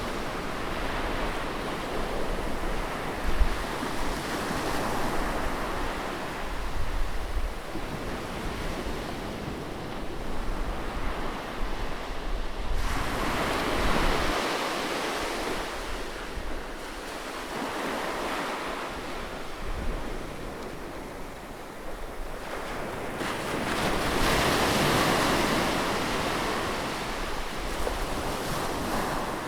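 Sea waves breaking and washing ashore in a steady rush that swells and eases, with louder surges about 13 seconds in and again around 24 seconds.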